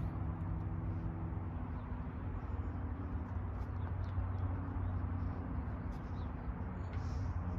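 Steady low engine hum, such as a vehicle idling.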